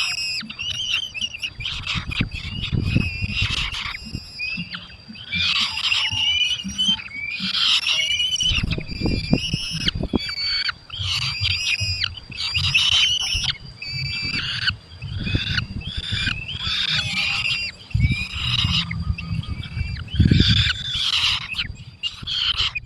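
Falcons calling at the nest: a long series of harsh, shrill calls, about one or two a second, with low rumbling bumps underneath.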